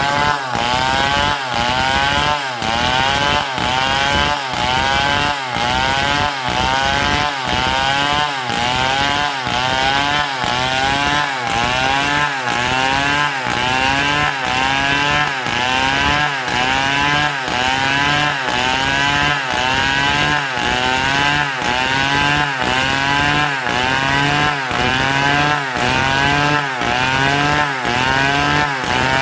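Stihl MS 070 large two-stroke chainsaw cutting through palm wood, its engine pitch rising and dropping back in a steady, even cycle a little faster than once a second as the chain bites and frees.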